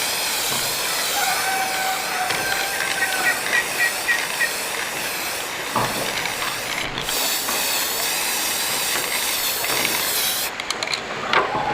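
Electric arc welding on an iron frame: a steady hiss from the arc that breaks off briefly about seven seconds in and again near the end, when a few clicks are heard.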